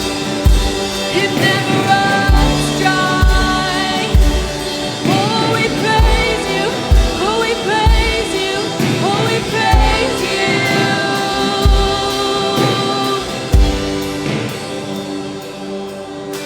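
Live worship band playing with voices singing a melody over sustained chords, and a kick drum beating steadily.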